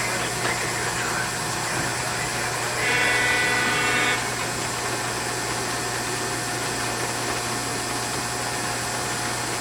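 Model Norfolk Southern Dash-9 diesel locomotive's sound system playing a steady diesel engine running sound. About three seconds in, one short horn blast lasts about a second.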